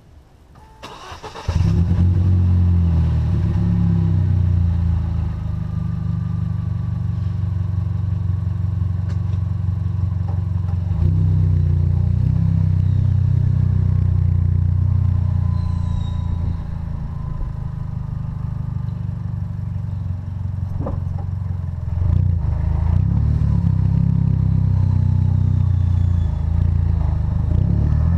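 2012 Chevrolet Sonic's turbocharged 1.4-litre four-cylinder, fitted with a catless downpipe and a resonator-only exhaust, cranks and starts about a second and a half in. It then runs steadily, its level stepping up and down a few times.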